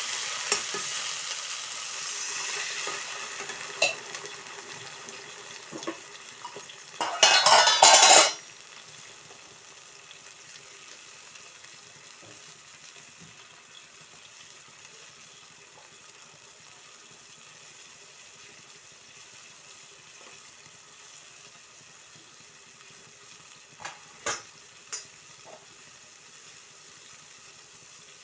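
Spinach and fenugreek leaves frying with onions in a steel wok, sizzling as they are stirred with a metal skimmer. About seven seconds in, a loud burst of hissing as water is poured into the hot oil, after which the pan settles to a quiet simmer, with a few light clinks near the end.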